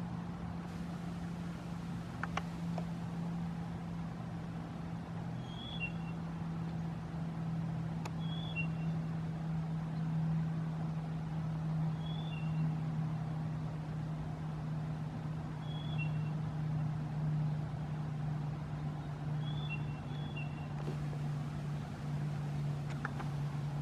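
Steady low drone of a small ride-on vehicle's motor as it rolls along, with a short high two-note chirp repeating about every four seconds.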